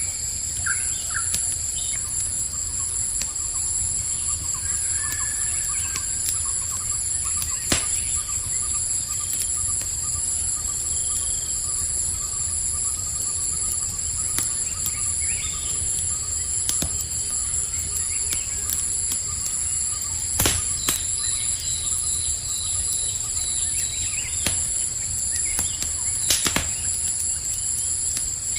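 Campfire crackling, with a few sharp pops over a low steady rumble, against a constant high chorus of crickets trilling. Faint short bird chirps come and go.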